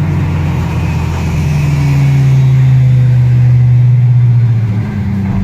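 Car engine running hard during a downhill run. The engine note drops a step about a second and a half in and rises again near the end.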